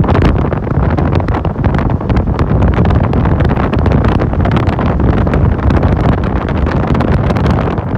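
Wind buffeting the microphone in crackling gusts over the steady rumble of a motorcycle and its tyres on a bumpy road, heard from the back seat of the moving motorcycle taxi.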